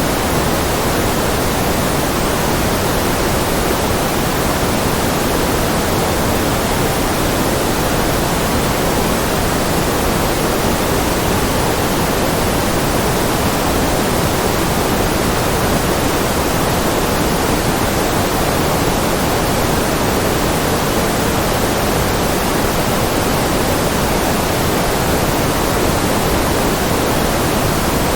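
Steady synthetic white noise: an even, unchanging hiss, fuller in the low and middle range than at the top.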